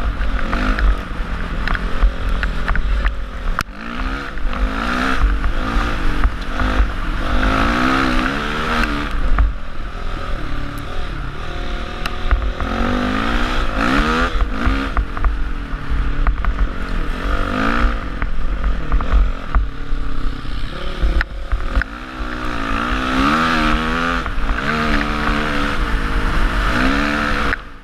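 Honda CRF450R single-cylinder four-stroke dirt-bike engine revving up and falling back over and over as it is ridden off-road, with wind rumbling on the helmet-mounted microphone.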